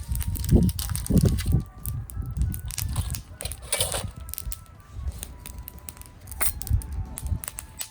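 Wood fire crackling and popping in a small fire-pit stand, irregular sharp pops over a low rumble, with a few dull thumps in the first second and a half.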